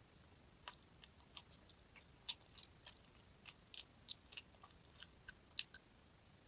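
A person chewing food close to the microphone: a faint, irregular series of small crunching clicks.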